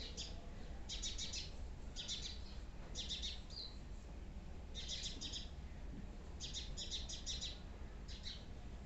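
Small birds chirping: short runs of rapid, high chirps come about once a second, over a low steady hum.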